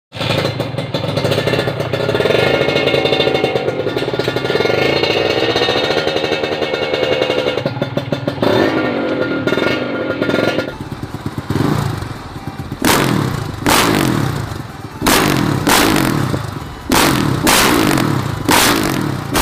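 Two-stroke Kawasaki Ninja RR engine revving through an aftermarket racing exhaust. It is held at high revs, wavering a little, for about ten seconds, then gives a string of sharp throttle blips about one a second.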